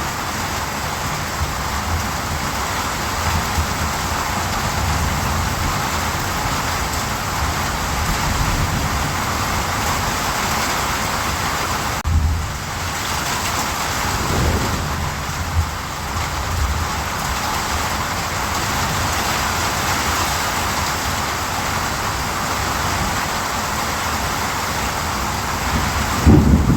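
Steady heavy rain falling, with low rumbles of thunder underneath and a stronger thunder rumble near the end.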